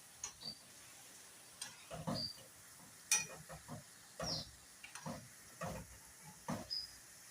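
Spatula scraping and knocking against a frying pan as potato patties are turned in oil, in short irregular strokes about once a second, over a faint steady sizzle.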